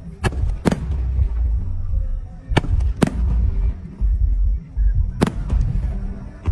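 Fireworks bursting: five sharp bangs, two in quick succession near the start, two more about three seconds in and one near the end, over a continuous low rumble.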